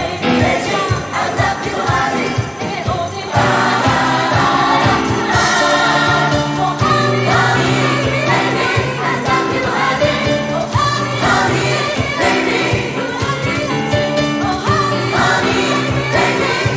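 A large gospel mass choir singing a soul medley in full voice over a band with steady percussion. The sound gets fuller and louder about three seconds in.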